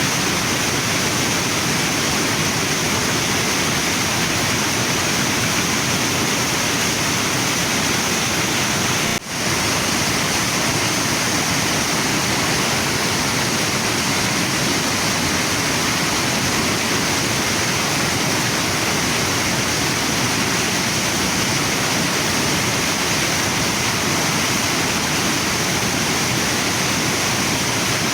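Waterfall and river water rushing steadily, with one brief dip in level about nine seconds in.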